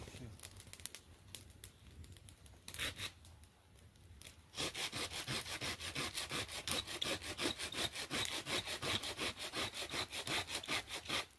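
Hand saw cutting through firewood: a short run of strokes, a pause, then steady back-and-forth sawing at about three strokes a second that stops near the end.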